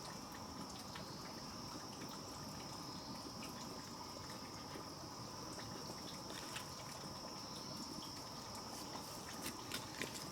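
Steady high-pitched drone of insects, with scattered small clicks and taps over it.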